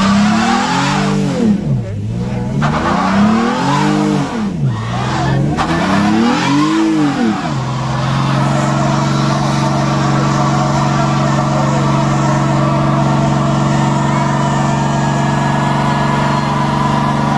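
Car engine revved hard three times, each rev rising and falling, then held at steady high revs for the rest of the time.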